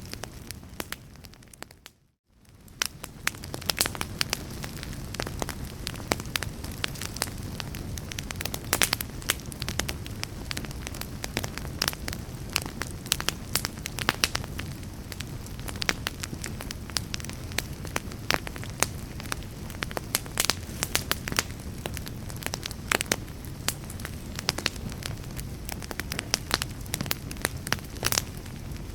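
Fireplace wood fire crackling and popping over a steady low rumble. The sound fades almost to silence about two seconds in, then swells back up.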